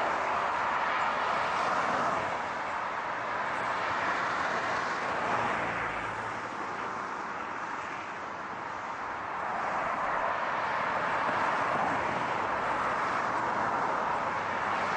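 Continuous car road noise, a steady rush of tyres and engine that eases slightly about halfway through and swells again.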